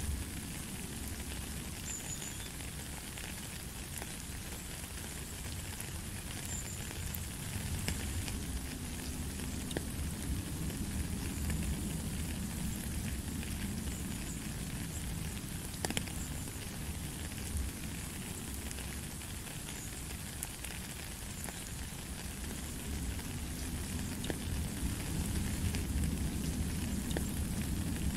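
Steady rain falling on a wet gravel path and puddle: an even hiss with scattered sharp drip ticks, over a low rumble.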